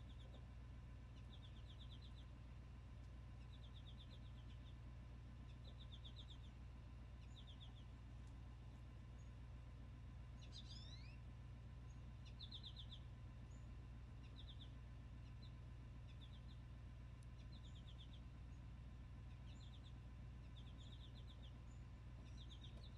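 Faint bird chirping: short clusters of rapid chirps repeating about once a second, with one higher gliding call about ten seconds in, over a steady low hum.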